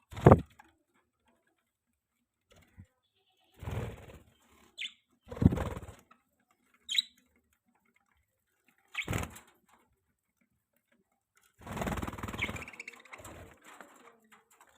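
Pet budgies giving a few short, high chirps, among five louder brief bursts of rustling.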